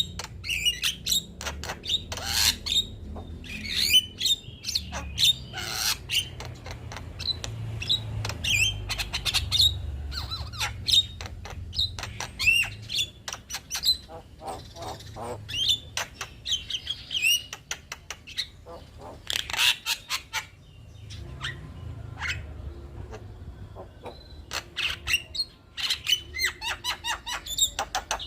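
Male black-winged myna (jalak kebo) singing a varied song of harsh squawks, sharp clicks and whistled glides, in quick bursts with brief pauses.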